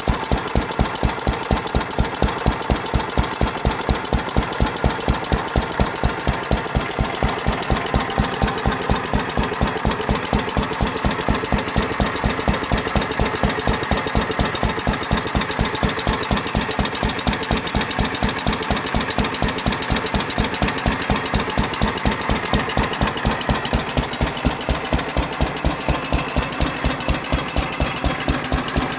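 Single-cylinder 2.5 hp IHC Mogul hit-and-miss gas engine running, with an even, regular beat of sharp firing strokes and mechanical clatter.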